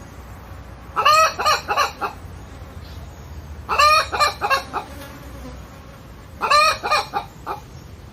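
A hen calling in three bursts, each of several quick pitched notes lasting about a second, spaced a little under three seconds apart.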